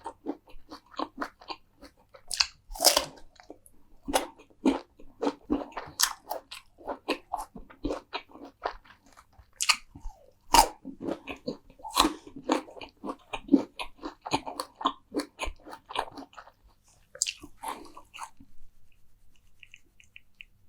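Close-miked eating: crunchy bites and chewing, a dense run of crisp crackles, with a brief pause about three-quarters of the way through.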